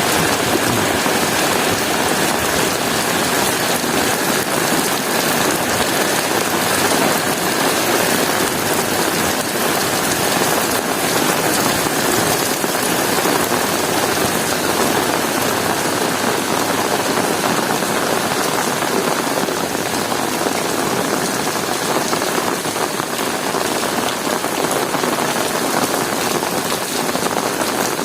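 Heavy rain falling steadily, a dense even hiss of drops spattering on hard surfaces.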